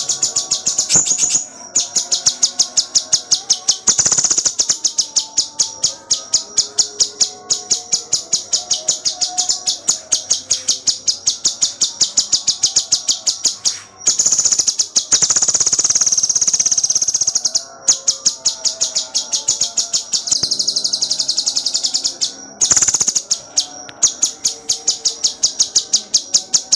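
Cucak cungkok songbird in full song: a fast, steady run of high chirps, about four or five a second, broken now and then by longer continuous trills.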